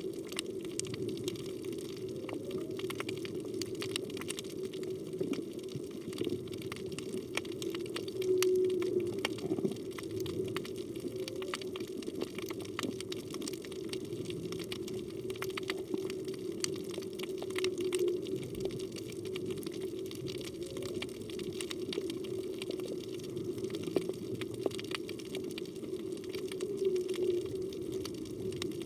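Humpback whale song heard underwater: long low moaning tones swell about every nine seconds, with short, fainter rising calls between them. A steady crackle of small clicks and water noise runs underneath.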